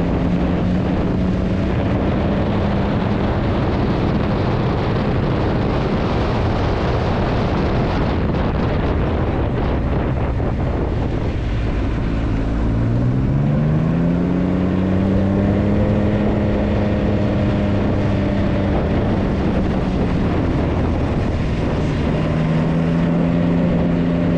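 Motorcycle engine running under way, with wind noise on the microphone. The engine note drops away about a third of the way in, then climbs steadily as the revs rise and holds at the higher pitch to the end.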